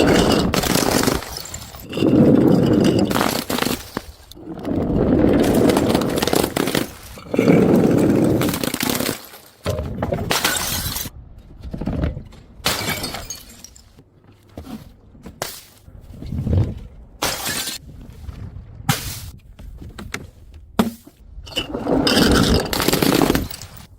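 Glass bottles smashing: four loud crashes in the first nine seconds, then a run of short cracks and clinks, and one more crash near the end.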